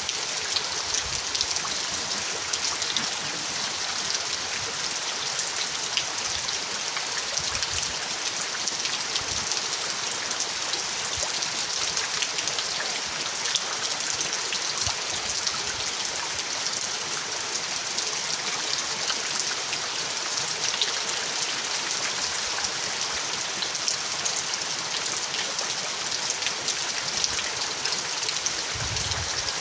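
Steady rainfall, a dense patter of drops hitting a surface.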